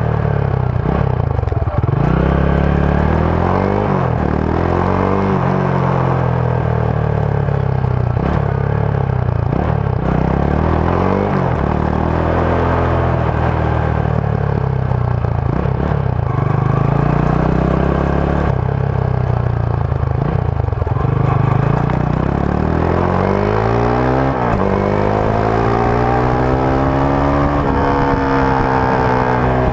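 Rusi Sigma 250 motorcycle's stock exhaust while riding, the engine note rising and falling as the throttle opens and closes and the gears change, with a long climb in pitch near the end.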